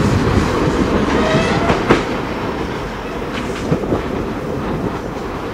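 Transilien suburban train of stainless-steel coaches rolling slowly over station pointwork, its wheels clacking over the rail joints with a few sharp clicks and a brief wheel squeal about a second in.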